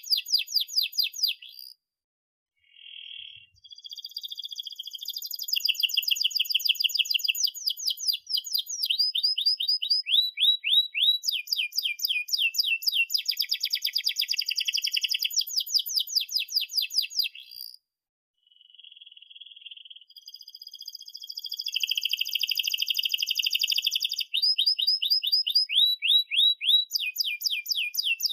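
Domestic canary singing a long song of fast rolling trills and repeated chirps, breaking off briefly twice.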